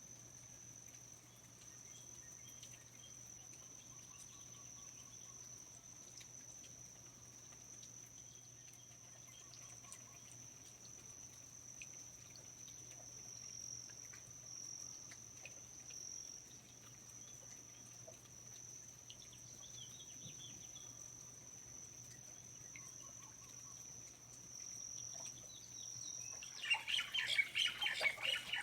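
Rainforest ambience: faint scattered bird chirps over a steady high-pitched whine. About twenty-six seconds in, a bird breaks into loud, rapid squawking.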